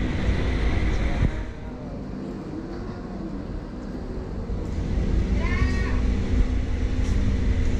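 A hearse's engine idling, a steady low hum. A brief high voice call a little past halfway.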